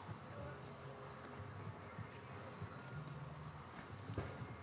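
Crickets chirping in a steady, pulsing high trill, with one low thump near the end.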